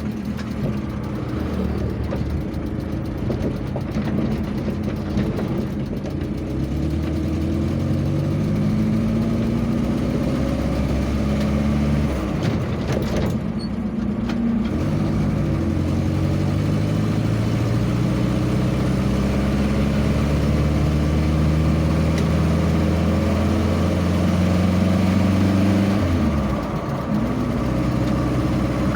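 Vehicle engine pulling away and accelerating through the gears, its pitch climbing steadily and then dropping back at each gear change several times, and falling away sharply near the end as it eases off.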